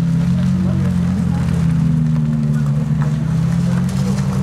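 Ferrari F430 Challenge's V8 engine running at low, steady revs: an even low drone with no revving or change in pitch.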